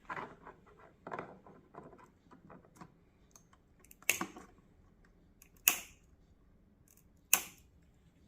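Hands working on brittle headlight wiring: soft rustling clicks of handling, then three sharp snips or snaps about a second and a half apart.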